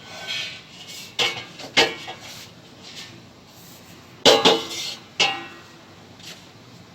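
Hard metal objects clanking and knocking together, about five sharp knocks. The loudest pair comes about four seconds in and leaves a short ringing.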